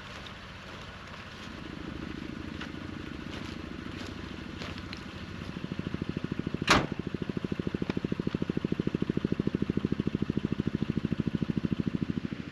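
An engine running with a fast, even pulse that builds up over the first few seconds and cuts off suddenly at the end, with one sharp click about seven seconds in.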